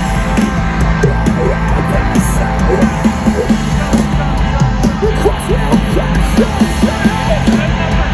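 A heavy rock band playing live and loud: distorted guitars and fast, pounding drums, with yelled vocals.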